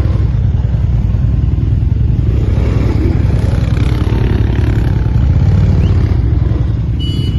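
Quad bike (ATV) engine running steadily under way, a dense low rumble with rattle. A short high-pitched tone comes in near the end.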